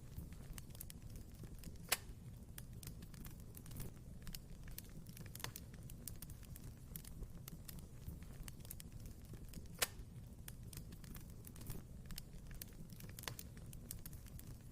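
Wood fire crackling in a fireplace: a steady scatter of small crackles and snaps over the low rumble of the flames, with two sharper, louder pops about two seconds in and near ten seconds.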